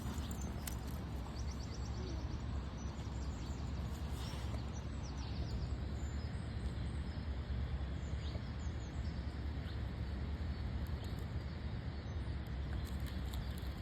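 Steady outdoor background noise with a low rumble, and faint high bird chirps in quick series during the first few seconds.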